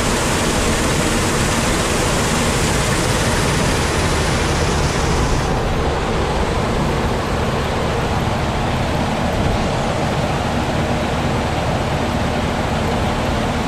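A grain cleaner running steadily, giving a loud, even rushing noise with a low machine hum under it. The highest hiss drops away about five and a half seconds in.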